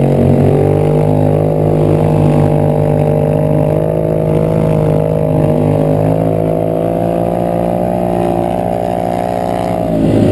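Polaris 850cc parallel-twin four-stroke engine in a go-kart running steadily at a fairly even pitch, easing off slightly near the end.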